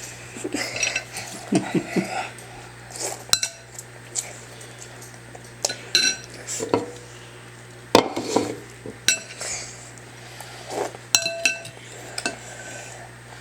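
Dishes and cutlery clinking at a dinner plate: several sharp clinks spread out, some ringing briefly, with softer handling noises between.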